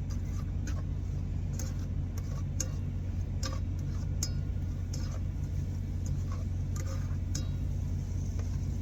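A utensil stirring a stir-fry in a pan, giving irregular light clicks and scrapes, over a steady low hum.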